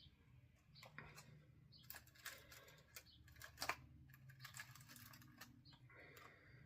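Faint, irregular crinkling and clicking of a plastic snack package and crispy coconut rolls being handled, thickest in the middle.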